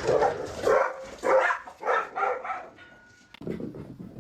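Dog barking repeatedly, about five or six barks in quick succession, which stop after about two and a half seconds.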